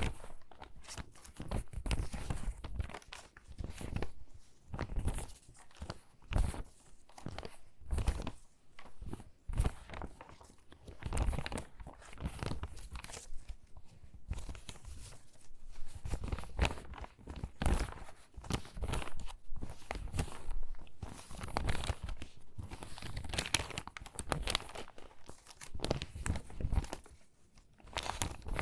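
Stiff, water-damaged magazine pages being handled and sorted: irregular crinkling and crackling rustles, one after another, with soft thuds as pages are set down.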